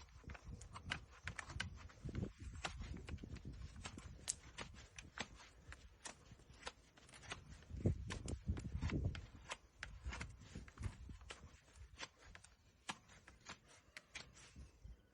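Irregular sharp clicks and knocks from a horse's hoof during a trim, about two or three a second, over low thumps that are loudest about eight seconds in.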